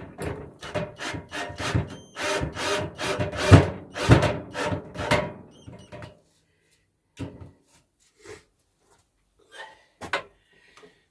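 A heavy wooden workshop bench being shoved and shuffled into position on the floor: a quick run of wooden scrapes and knocks for about six seconds, then a few separate knocks as it settles level.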